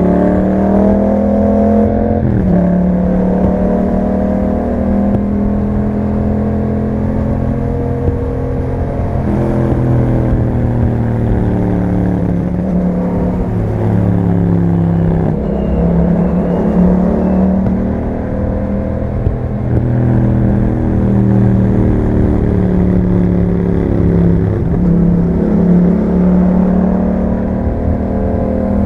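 Yamaha MT-07's parallel-twin engine through an Akrapovic exhaust, ridden under way: the engine note climbs with the throttle and drops back several times as the rider changes gear.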